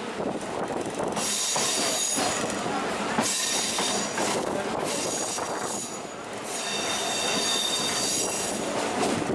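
Train wheels squealing against the rails in three long stretches, over the running rumble of the moving train.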